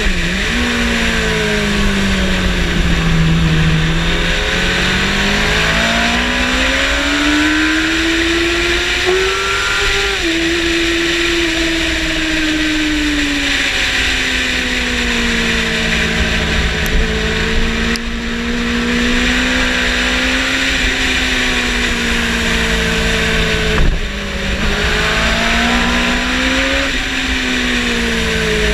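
Yamaha motorcycle engine under way on a race track, its note climbing and falling over several seconds as the rider works the throttle through the corners, over a steady rush of wind noise. Near the end the note breaks off for a moment, as at a gear change.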